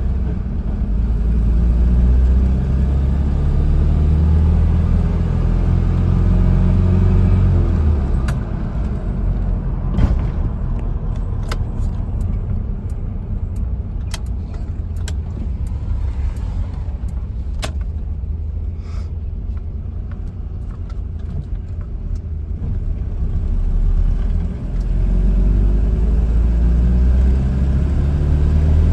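1985 Nissan 720 King Cab pickup's engine running with a steady rumble. For a stretch in the middle the engine note is less distinct and a scattered series of sharp clicks and knocks sounds over it.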